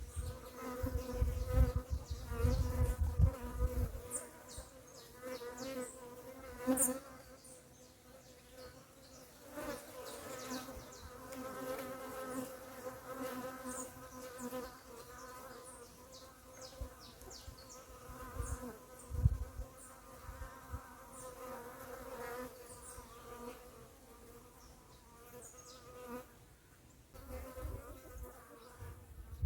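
Bees buzzing steadily, a hovering drone with a wavering pitch, with brief high bird chirps scattered through it. A low rumble sits under the first few seconds.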